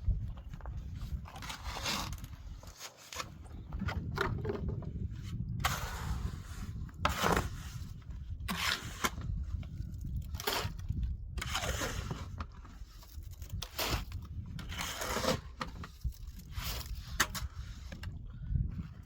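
A series of irregular scrapes and crackles over a steady low rumble.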